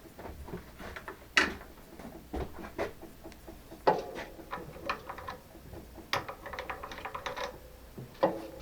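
Scattered light metallic clicks and knocks from hand work at a metalworking machine, a few of them with a short ringing.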